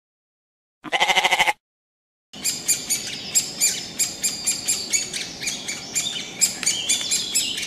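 A goat bleats once, briefly, about a second in. From about two seconds in come many birds chirping and calling, a dense run of short, sharp high notes.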